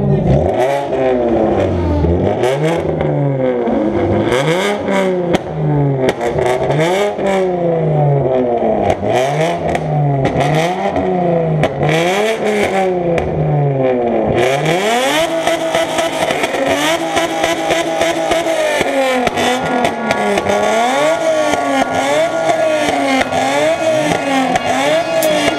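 Nissan 350Z's V6 engine revved again and again while the car stands still, each rev climbing and falling in pitch about every second and a half. About halfway through, the revs turn quicker and shallower.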